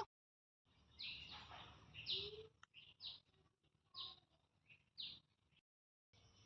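Faint bird chirps: short high-pitched calls repeated about once a second.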